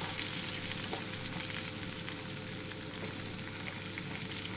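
Rice and vermicelli frying together in a pan with a steady sizzle, being toasted before the water goes in for a vermicelli-rice pilaf.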